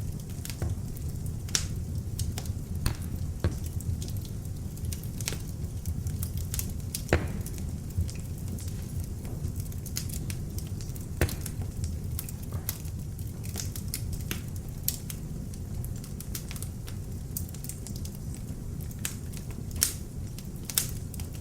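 Beech logs burning in an open fireplace: a steady low rumble of flames with irregular crackles and sharp pops, a few of them louder.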